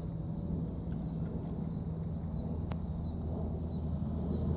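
An insect chirping steadily in a fast, even rhythm, about three high chirps a second, over a low outdoor background rumble.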